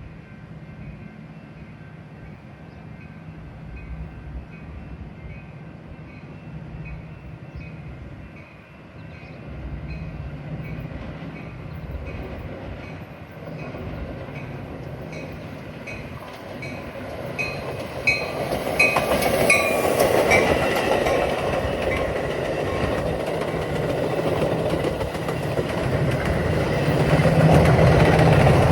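A train approaching and running past, its rumble and rolling noise growing louder and jumping up about eighteen seconds in, with an evenly spaced ticking throughout.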